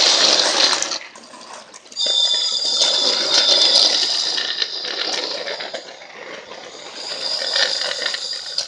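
Battery-powered toy train running on plastic track: a high motor whine over wheel rattle. It drops away about a second in, comes back a second later, fades in the middle and grows louder again near the end, as the train moves away and comes back.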